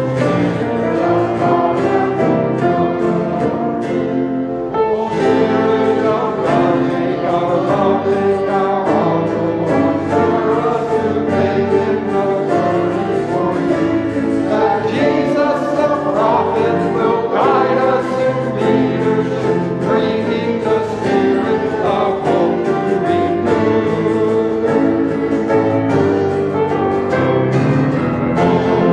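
Church choir singing with instrumental accompaniment, a steady run of held notes with no breaks.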